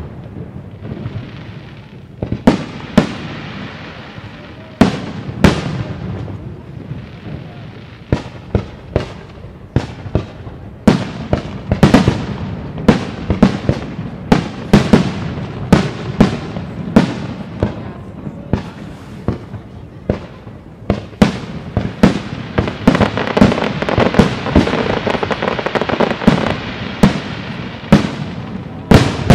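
Aerial firework shells bursting in a display: a string of sharp bangs, spaced out at first, then coming thick and fast, several a second, after about ten seconds. In the later part a dense rushing noise fills the gaps between the bangs.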